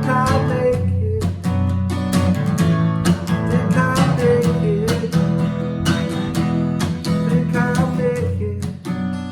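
Acoustic guitar strummed in a steady rhythm, with a melody line over the chords.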